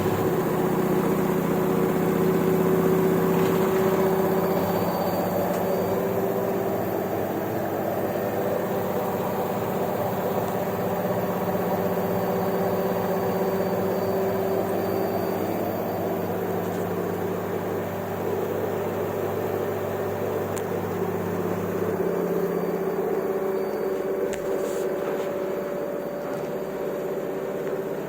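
LG washing machine running with a steady motor hum, its drum turning; a low part of the hum drops out about 22 seconds in.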